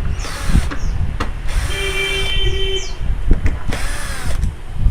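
Electric screwdriver running in several short bursts, its motor spinning up and down each time, as screws are taken out of the TV's back cover.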